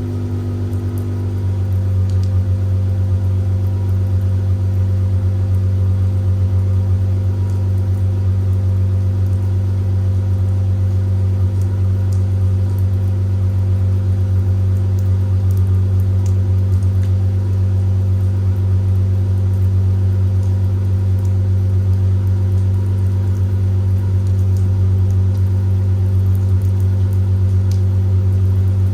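2011 Dodge Charger SXT's 3.6-litre V6, with its catalytic converters deleted and upgraded mufflers, idling steadily with a deep exhaust hum on a cold start. About a second in the idle shifts slightly and gets a little louder, then holds steady.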